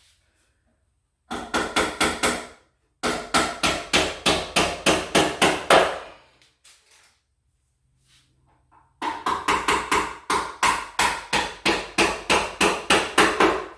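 Hammer driving nails into the wooden closet-organizer unit: three runs of quick, even blows, about four or five a second, the last and longest run starting about nine seconds in.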